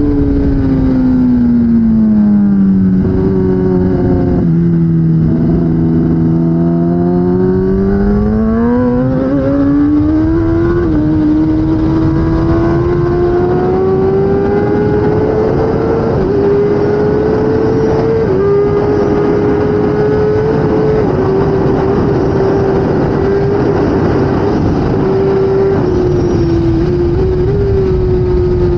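Kawasaki ZX-10R superbike's inline-four engine, revs dropping for the first few seconds as it slows, then climbing hard as it accelerates, with a few brief steps in pitch, and holding high revs to the end over a steady rush of air.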